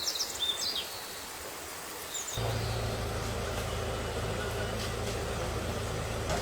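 A few short bird chirps, then about two and a half seconds in a steady machine hum with a low drone starts abruptly and runs on.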